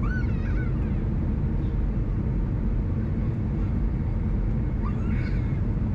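Steady low rumble of engine and airflow noise inside an Airbus A319's cabin during the landing. A couple of faint, brief gliding higher sounds rise over it near the start and again about five seconds in.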